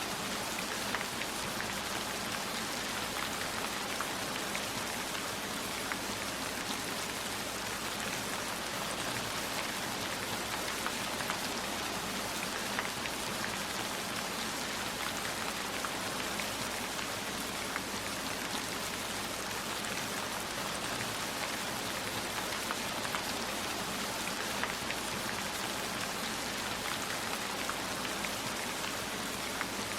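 Steady heavy rain, an even hiss with many small scattered drop ticks.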